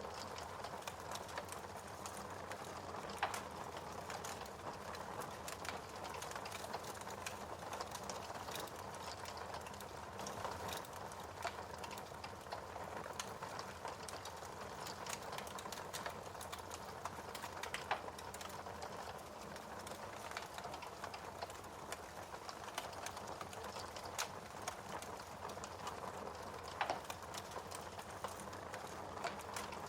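Wood fire crackling in a fireplace: a steady hiss with frequent small irregular snaps, and a few louder pops.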